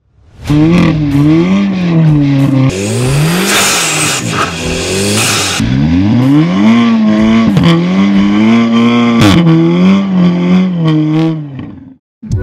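Audi S3's turbocharged four-cylinder engine, tuned to about 400 hp, revving hard. Its pitch climbs and drops again and again through gear changes, with a rushing hiss from about three to six seconds in. It cuts off suddenly near the end.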